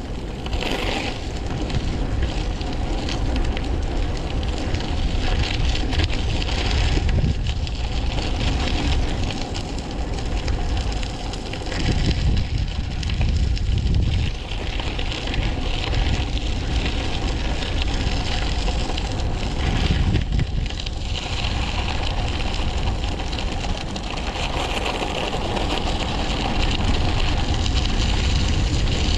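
Wind buffeting the microphone with rumble and rattle from the bike rolling fast downhill, a steady roar that swells and eases in irregular gusts.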